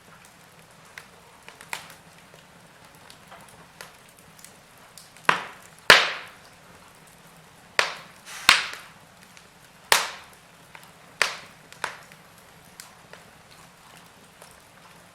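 Wood fire crackling in a fireplace: logs give off sharp, irregular pops and snaps, a cluster of loud ones in the middle with the loudest about six seconds in, and small ticks between them.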